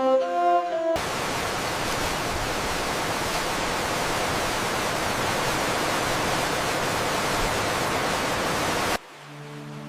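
Music for about a second, then a steady, even rushing noise like rushing water or static, which cuts in abruptly and cuts off abruptly near the end, where quieter music resumes.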